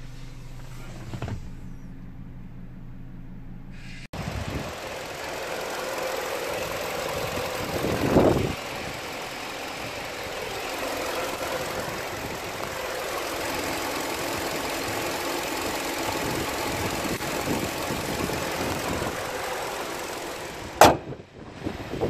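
Hyundai Sonata Y20 LPi's LPG-fuelled four-cylinder engine idling steadily, first as a low hum heard from inside the cabin. About four seconds in it becomes louder and fuller, heard at the open engine bay, with a brief louder swell about eight seconds in and a sharp knock near the end.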